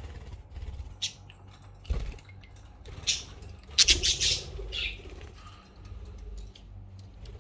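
Pet budgerigars chirping, with scratchy rustling and clicks. The loudest is a brief noisy flurry about four seconds in.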